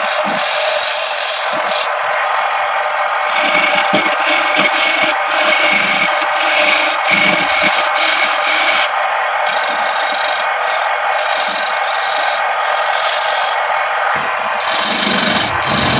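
Hollow bamboo spinning on a homemade wood lathe while a tool cuts and scrapes its outer surface. The sound is a steady rasping hiss whose sharp top end breaks off briefly several times.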